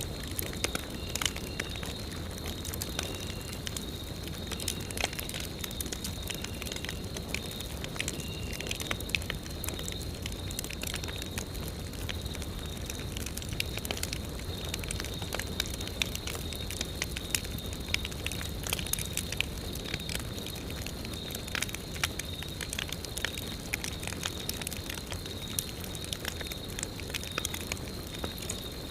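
Wood campfire burning and crackling, with frequent irregular sharp snaps and pops over a low steady rush. A faint steady high-pitched tone runs underneath.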